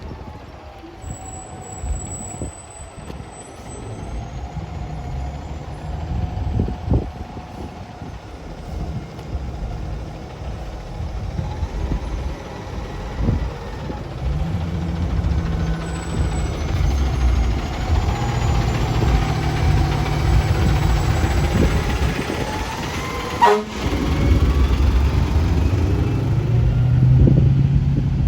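Fire engine running, its engine rumble growing louder as it comes closer, with a rising whine. About 23 seconds in there is a short, sharp sound.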